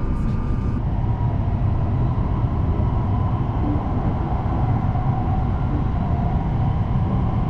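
Hokuriku Shinkansen train running, heard from inside the passenger cabin as a steady low rumble with a faint whine above it.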